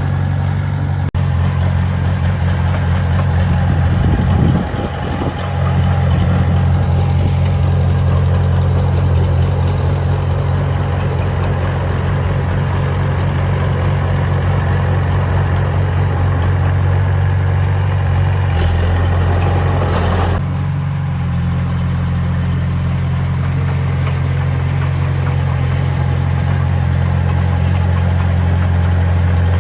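Diesel engine of heavy earthmoving machinery running steadily with a low, even hum. There is a brief dip in level about five seconds in, and a short rougher, louder stretch about two-thirds of the way through.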